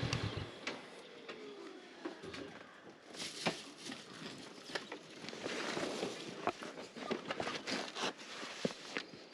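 Honda CB500X parallel-twin engine idling, then switched off about half a second in. It is followed by irregular footsteps and small clicks and crunches.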